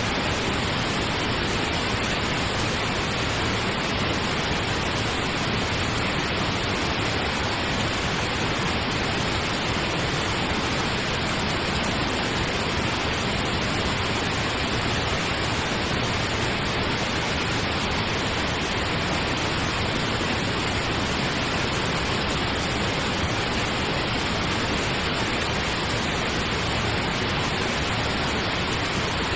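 Steady synthetic pink noise, an even, unchanging hiss with no breaks or other sounds.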